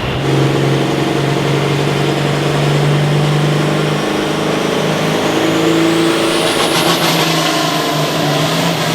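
A pulling vehicle's engine runs hard and steady, with a high whine that climbs in pitch from about four seconds in.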